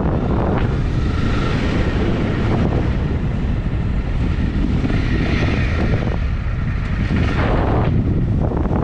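Honda CRF250 single-cylinder motorcycle riding along at speed, its engine running under heavy wind buffeting on the microphone.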